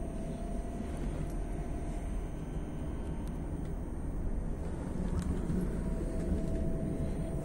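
Steady low rumble of a CityElephant (class 471) double-deck electric train running along the track, heard from inside the passenger car, with a faint steady whine. It grows a little louder after about four seconds, and a few light clicks come through.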